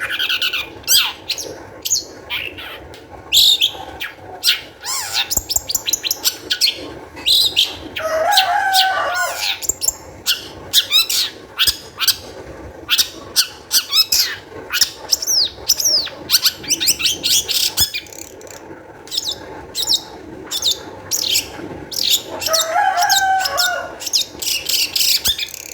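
Long-tailed shrike (cendet) singing in high spirits: a rapid, unbroken string of sharp chirps and quick whistled glides, with a harsher, wavering phrase about eight seconds in and again near the end.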